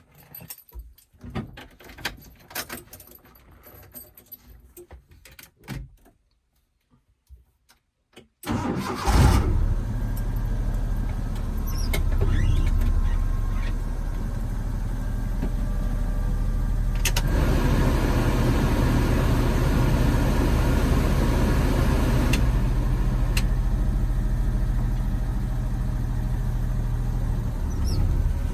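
Scattered small clicks and knocks, then about eight seconds in the Maruti Suzuki Omni's small three-cylinder petrol engine starts abruptly and settles into a steady idle with a low hum.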